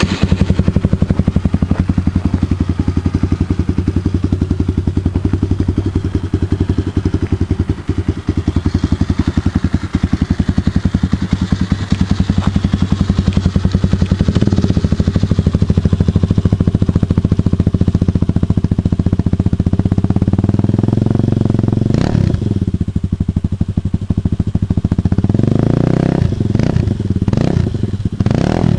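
250cc pit bike engine idling steadily just after a cold start, warming up, with a short blip of the throttle about two-thirds through and several quick revs near the end.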